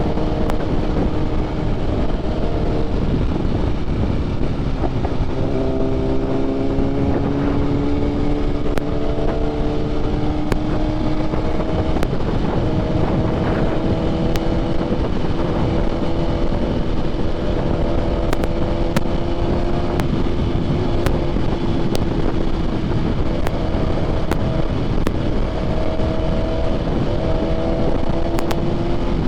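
Motorcycle engine running at riding speed under a steady rush of wind on the microphone. Its pitch holds for several seconds at a time and steps to a new pitch a few times.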